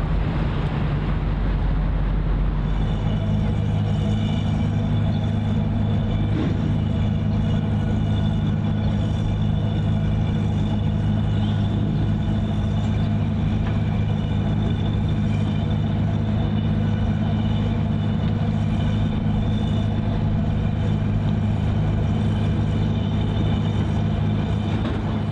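Steady engine drone, a deep hum with fainter whining tones above it, that grows heavier about three seconds in and then holds steady.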